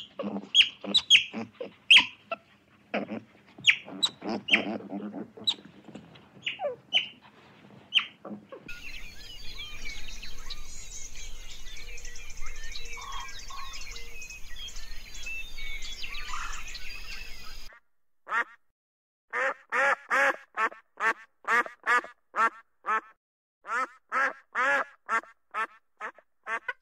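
Otter giving sharp, high chirps and squeaks, then a stretch of small birds chirping over a steady background hiss, then a run of loud honking duck calls about two a second from a ruddy shelduck.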